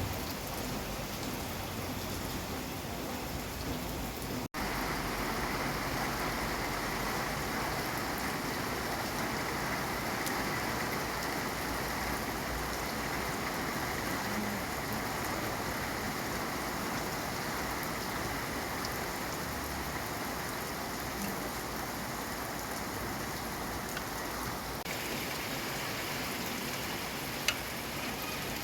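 Steady rain falling, an even hiss of drops with no thunder. There is a momentary dropout about four seconds in and a single sharp tick near the end.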